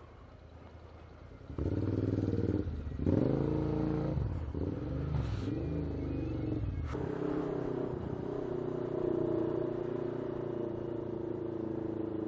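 Motorcycle engine pulling away after a quiet moment, about a second and a half in: the revs rise and drop several times through gear changes, then settle into a steady drone.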